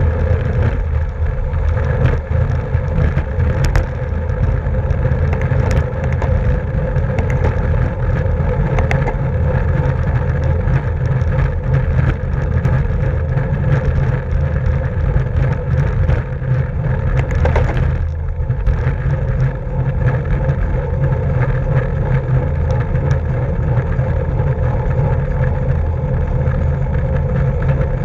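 Racing bicycle ridden at speed: a steady rush of wind on the microphone with tyre and drivetrain hum, and scattered light clicks.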